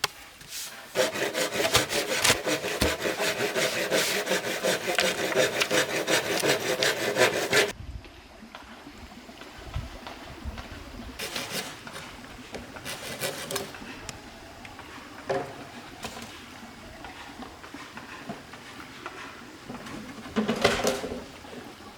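Saw cutting through bamboo with quick, even back-and-forth strokes for about seven seconds, stopping suddenly; a few short scrapes on the wood follow.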